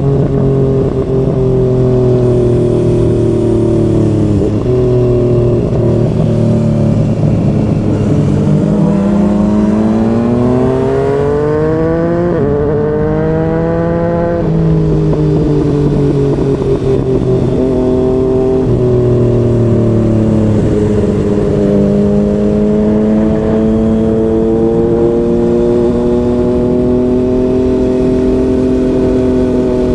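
Yamaha MT-09 three-cylinder engine with a Yoshimura R55 slip-on exhaust running under way. It holds steady, climbs in pitch for about six seconds as the bike accelerates, drops back, then cruises with slow gentle rises and falls in revs.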